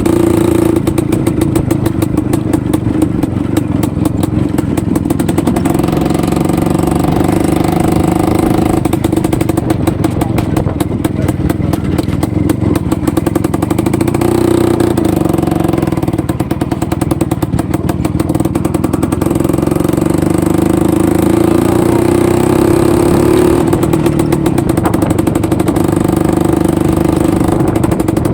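IZh-49 motorcycle's single-cylinder two-stroke engine running under way, its revs rising and falling several times.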